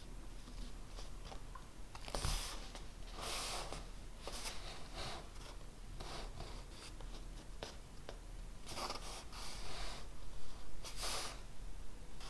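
Handwriting on paper: irregular scratchy strokes in short bursts, with a small knock about two seconds in.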